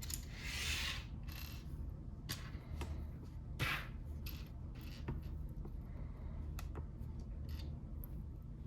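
Plastic Lego bricks clicking and rattling as pieces are handled, with a brief rustle about half a second in and another near four seconds, over a steady low hum.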